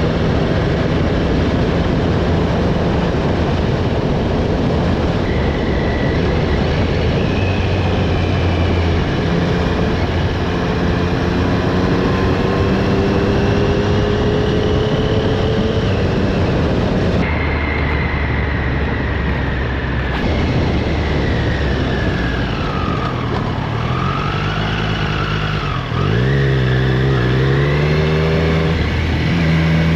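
Motorcycle engine on the move under a steady rush of noise, its pitch climbing as it speeds up, then falling as it slows and rising again near the end. The sound changes abruptly about halfway through.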